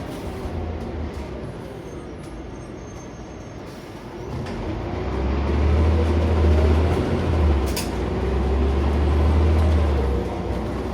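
Scania CN94UB Omnicity bus heard from inside while under way: a steady engine drone and road noise. The low engine rumble swells about four seconds in and eases near the end, with a brief sharp noise near eight seconds.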